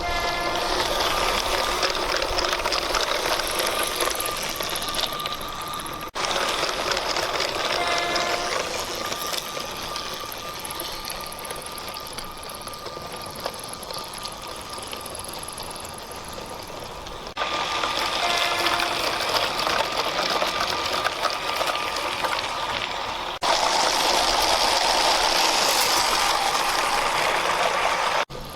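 Small electric motor of a brick-built toy train whirring, with its wheels rattling over plastic track, changing level abruptly at several cuts between clips.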